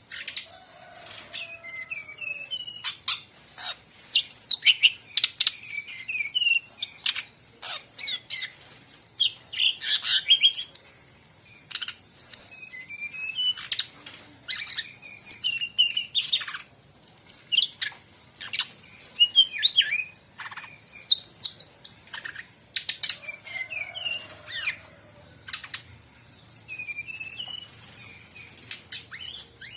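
Brown-chested jungle flycatcher singing busily in rapid chirps and whistled phrases, mixed with calls of other birds. Behind them runs a steady high-pitched hiss that drops out briefly a few times.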